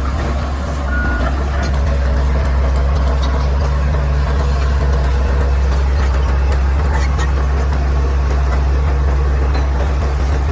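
Caterpillar D6R XL bulldozer's diesel engine running steadily at a constant low pitch.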